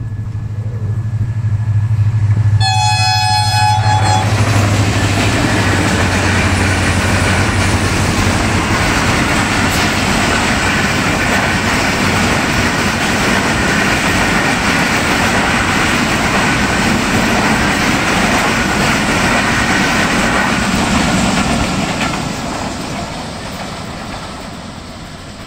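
Express passenger train: the locomotive sounds one horn blast of about a second and a half near three seconds in, then the train rushes past at speed with its wheels clattering on the rails. The sound fades as the last coaches move away near the end.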